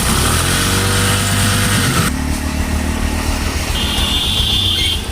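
Bajaj motorcycle engine running on a test ride after its timing-chain tensioner has been adjusted, with no chain rattle heard. Its pitch rises as it accelerates over the first two seconds, then after a sudden break it runs more steadily, with a brief high tone near the end.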